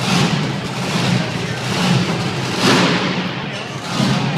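Bigfoot monster truck's engine running loud, with heavy revving surges, the strongest about two and a half seconds in and another near the end.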